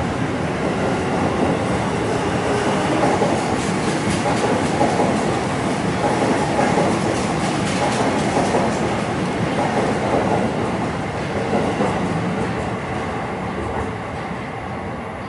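Saikyō Line E233 series electric commuter train running past the platform: steady wheel-on-rail rumble and rattle, fading away from about twelve seconds in as the cars clear.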